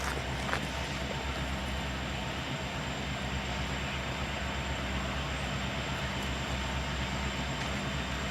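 Diesel locomotive engine running steadily, a low, even drone that neither rises nor falls.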